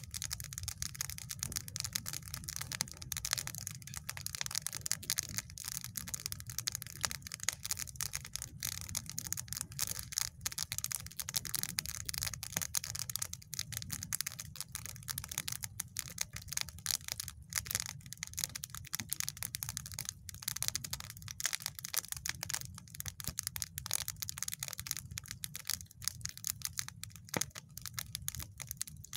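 Campfire of dry deadwood crackling and popping in quick, irregular snaps over a steady low rumble.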